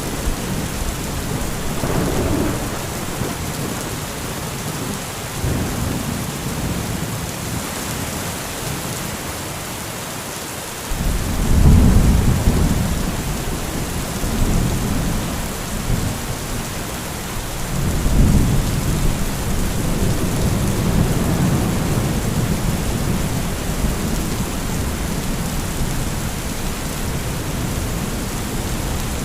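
Heavy rain falling steadily under rolling thunder. A loud rumble of thunder breaks in suddenly about eleven seconds in, and another swells up about eighteen seconds in, with weaker rumbles between.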